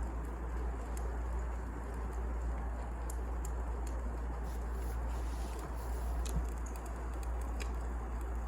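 Wood fire burning: a steady low rush with scattered sharp crackles and pops.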